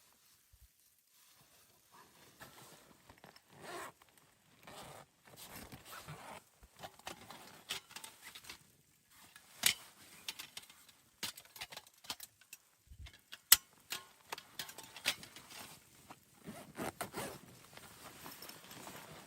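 Irregular scraping and rustling handling noises with scattered clicks, two sharp clicks standing out about ten and thirteen and a half seconds in.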